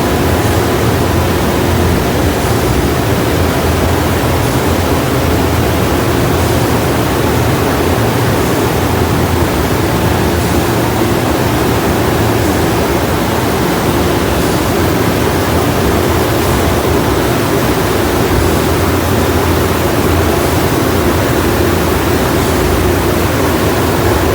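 Car wash blower dryers running: a loud, steady rush of air that doesn't change.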